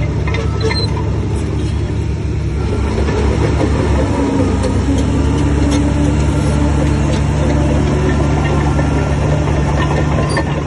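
Heavy diesel engine of earthmoving machinery running steadily, with scattered faint clicks and clanks over it.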